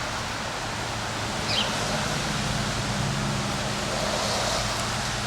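Strong wind blowing, a steady rushing noise, with a low steady hum underneath from about a second and a half in until near the end.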